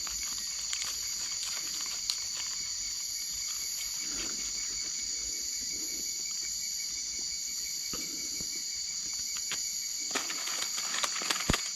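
Night chorus of insects, a steady high-pitched chirring that does not let up. A few faint clicks and rustles come near the end.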